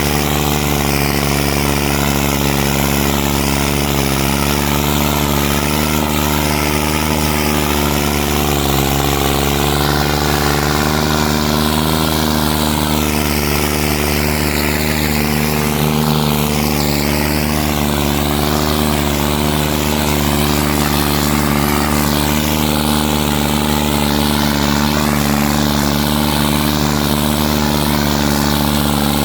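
New Holland 3630 tractor's diesel engine running steadily and loud under load, holding nearly the same pitch throughout.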